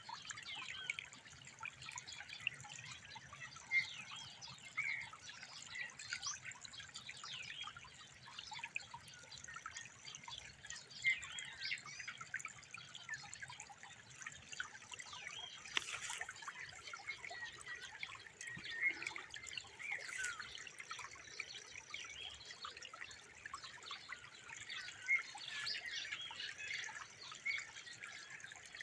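Water trickling and dripping in a steady run of small irregular bubbling blips, with two sharp clicks past the middle.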